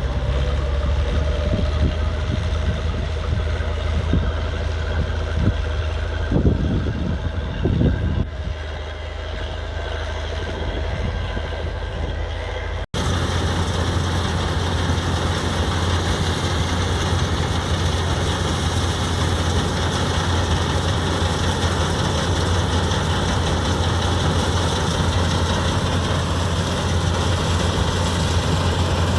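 Tractor engines running with a steady low note, with two brief revs about six to eight seconds in. The sound breaks off abruptly about thirteen seconds in, and after that the engine runs on with a louder, noisier rushing.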